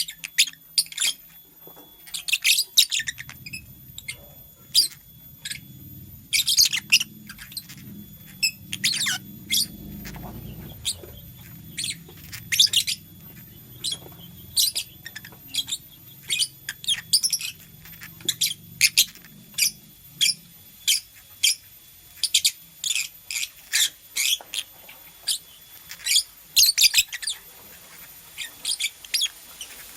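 Lovebird chirping: short, sharp, high-pitched chirps repeated irregularly, often several in quick succession.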